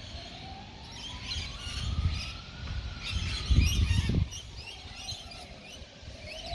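Emergency vehicle siren in a slow wail, rising for about three seconds and then falling for about three, with birds chirping over it. A low rumble sounds loudly a little past halfway through.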